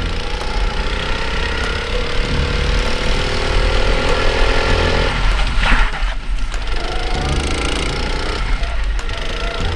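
Go-kart engine running hard, its pitch climbing steadily as it accelerates, then falling off about five seconds in before climbing again.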